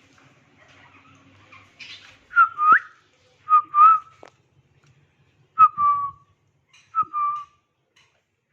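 Parrot whistling: four two-note whistles spaced a second or two apart, each a short note followed by a longer one, the first ending in an upward slide.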